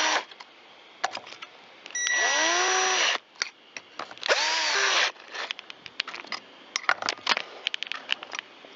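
A cordless power driver runs in two short bursts, about a second each, its motor whine rising and falling as it drives in screws while the chainsaw's muffler is fitted. Light clicks and taps of small parts being handled follow.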